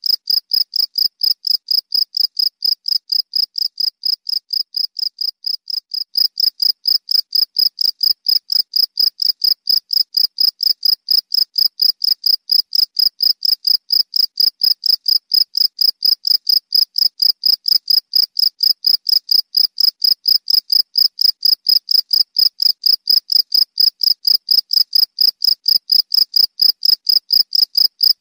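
Cricket chirping steadily: a rapid, even run of high-pitched chirps, about four a second, with no break.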